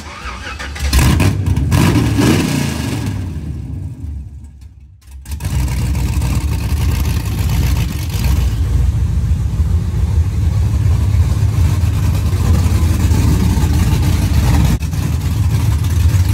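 1983 Chevrolet Caprice Classic's engine revving up and down briefly about a second in. After a short break it runs steadily with a low rumble as the car is driven into the garage.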